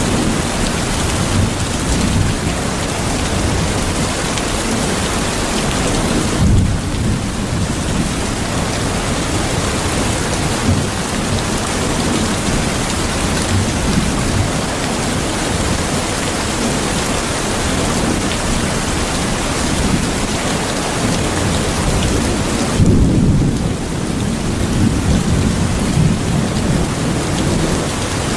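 Steady heavy rain, with low thunder rumbling twice: about six seconds in and again about twenty-three seconds in.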